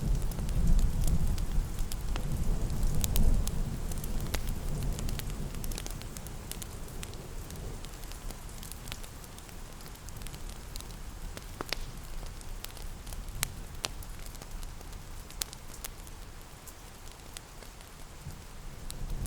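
Steady rain with scattered sharp crackles and pops of a wood fire. A low rumble fades away over the first five seconds or so.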